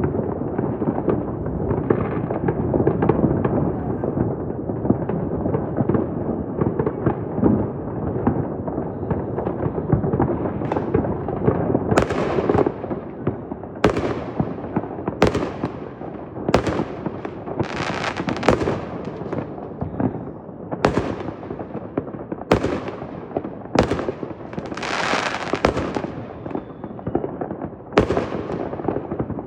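New Year fireworks going off: a dense run of overlapping bangs, then from about halfway through separate sharp bangs roughly every one to two seconds, with a longer hissing burst near the end.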